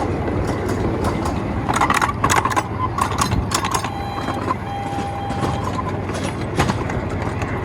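Miniature ride-on train running along its track: a steady rumble, with a cluster of clicks and knocks about two seconds in and a brief thin whine near the middle.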